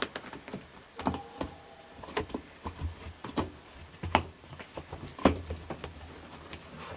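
Hands working the rubber door boot (bellows gasket) of a front-load washing machine off the cabinet's front lip, with irregular light knocks, clicks and rubbing.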